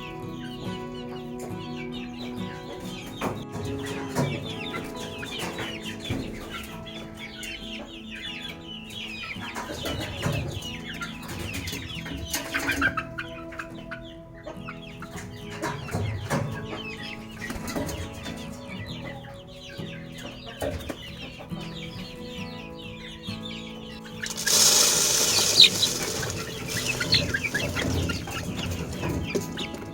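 Chickens clucking over background music, with a louder rush of noise lasting about two seconds near the end.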